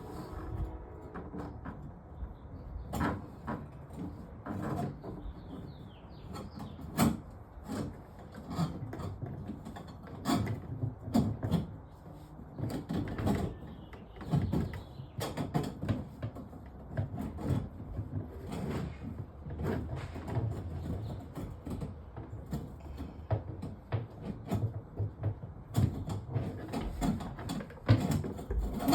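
Irregular knocks, taps and scraping from hands and tools working on under-sink drain pipes. A few sharper knocks stand out, one about seven seconds in and one near the end.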